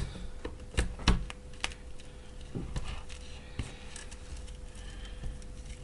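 Irregular light clicks and knocks of small parts and tools being handled on a workbench, two sharper knocks about a second in, over a faint steady hum.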